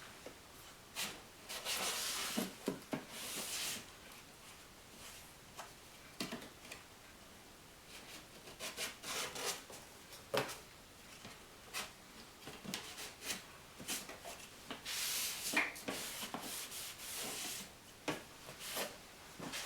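Hand work on car parts: irregular rubbing and scraping, each lasting about a second, with scattered small clicks and knocks as plastic and metal pieces are handled.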